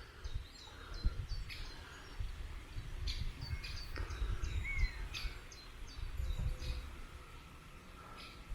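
Great spotted woodpecker young calling for food: a run of short, high chip notes repeated again and again, with other birds calling and a low rumble underneath.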